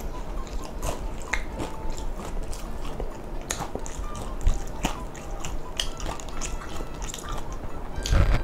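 Close-miked chewing of food in a mukbang, with wet mouth sounds and many irregular sharp clicks.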